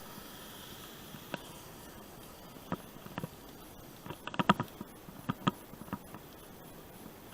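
Bicycle rattling and clicking over rough ground: scattered sharp knocks, with a quick cluster of them about four seconds in, over a faint steady hiss.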